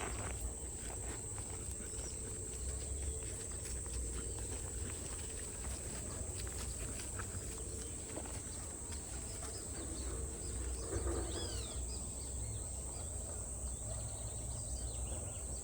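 Outdoor ambience: a steady high-pitched insect drone over a low rumble, with scattered light clicks and a few short bird chirps about eleven seconds in.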